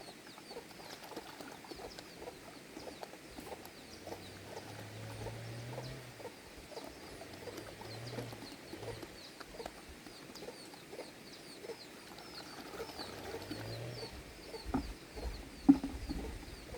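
Chickens clucking, with a faint high chirping repeating throughout and a single sharp knock near the end.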